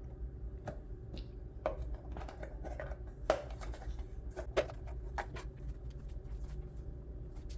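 Light clicks, taps and small scrapes of kitchen items being handled, scattered through the first five seconds or so, over a steady low hum.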